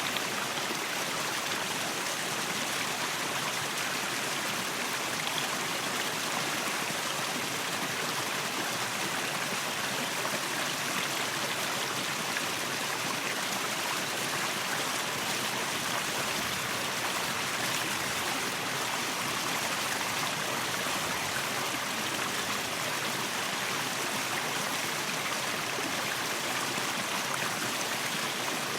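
Waterfall: a steady rush of falling and splashing water, an even hiss without breaks.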